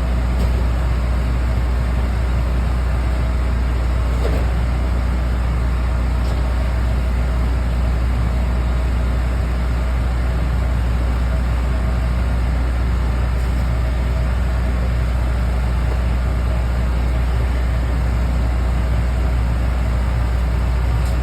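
A steady low mechanical drone, like an engine or motor running.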